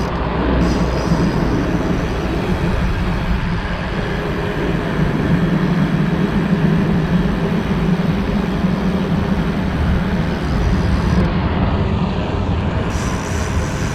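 Steady rush of riding noise from a dirt jump bike rolling along the promenade: tyre rumble mixed with wind buffeting the microphone, heaviest at the low end.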